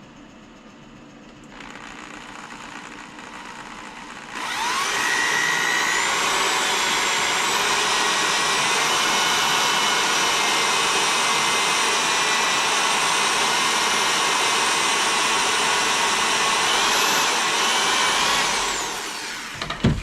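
Electric drill boring a wiring-channel hole through a solid guitar body: a steady, loud motor whine that comes up about four seconds in, after a quieter lead-in, holds for about fourteen seconds, then winds down near the end.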